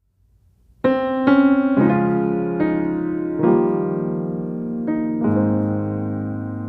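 Background piano music: slow, gentle notes and chords that begin a little under a second in and ring on.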